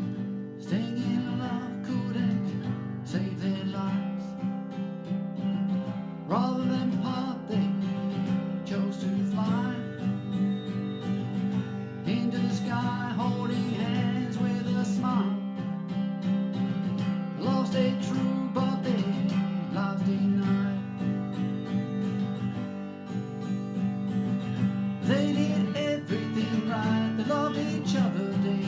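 Acoustic guitar strumming steadily, with a lead melody of short gliding notes over it: an instrumental break in a country-style song.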